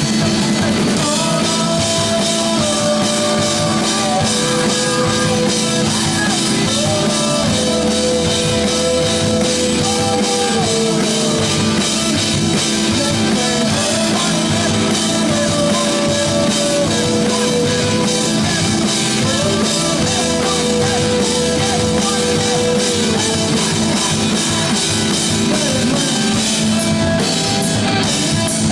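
Rock band playing live, drum kit and electric guitar, with a melody line of long held notes that slide from one pitch to the next.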